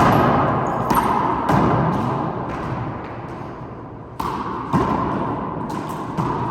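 Handball rally: a rubber handball is struck by hand and smacks off the court walls and floor, a string of sharp, echoing hits coming at irregular intervals about half a second to a second apart.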